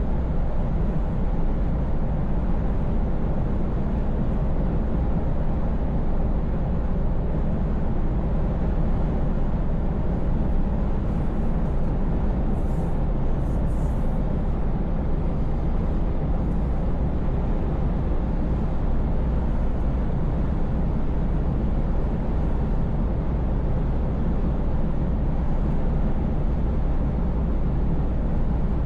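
Scania V8 truck engine running steadily at cruise, a deep low drone mixed with road and tyre noise.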